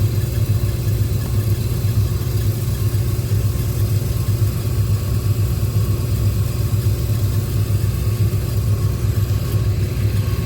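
Trane RTWD water-cooled screw chiller running, a steady low drone.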